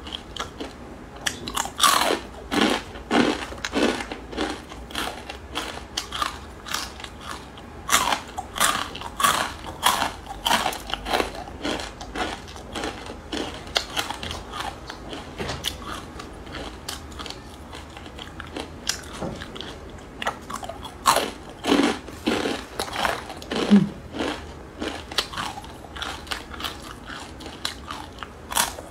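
Close-miked crunching of crisp fried instant ramen noodles being bitten and chewed: runs of sharp crunches with quieter chewing between.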